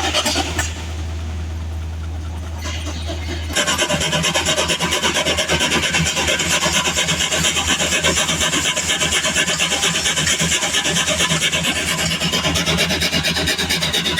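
A saw cutting through a log with a rhythmic rasp, about three to four strokes a second, which starts about three and a half seconds in. Before it, an engine runs with a steady low hum.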